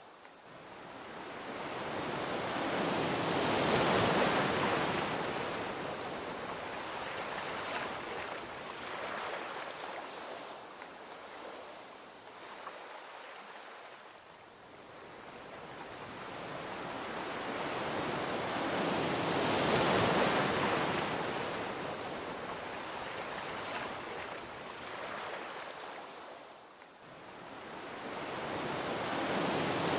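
Gentle ocean waves washing onto a beach: a steady hiss of surf that swells slowly to a peak and fades, twice, with a third swell building near the end.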